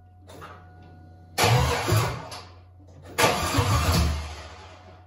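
Rebuilt 6.0-litre LS V8 (an LQ9) being cranked and firing briefly, twice, in bursts of about a second each that start suddenly and die away. One bank's plug wires are not connected, so it is firing on only four cylinders.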